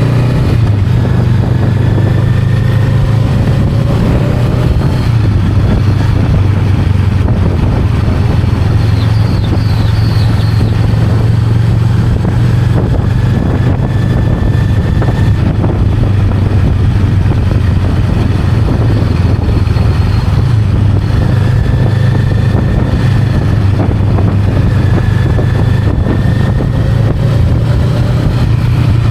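Honda Rebel 500's parallel-twin engine running steadily under way, a loud constant drone with its pitch rising gently several times as engine speed changes.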